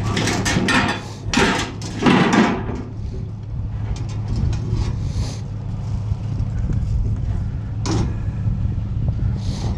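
A vehicle engine running steadily, with scrap being handled over it: several loud scrapes and clatters in the first two and a half seconds, scattered light clicks, and a sharp knock about eight seconds in.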